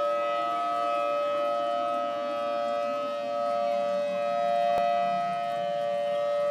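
Outdoor civil defense warning sirens sounding a tsunami warning, holding a steady chord-like tone with no rise and fall.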